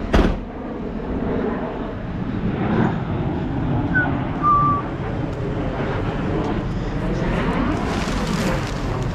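Vehicle running and driving, a steady engine and road rumble, with a sharp knock just after the start and two short high whistle-like tones a little before the middle.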